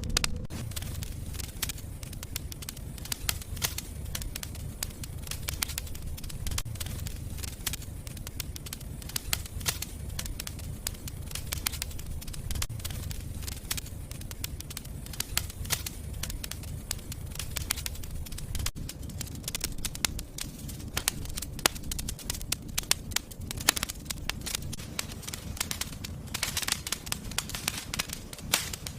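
Fire crackling in a fireplace: dense, irregular pops and snaps over a steady low rumble of the flames, with a busier run of crackles near the end.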